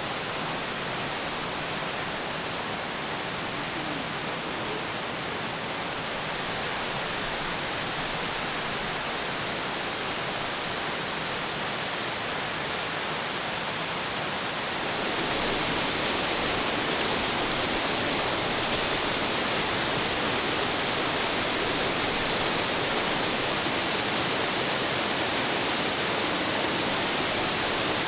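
A mountain valley stream rushing steadily. The water grows suddenly louder about halfway through and holds steady from there.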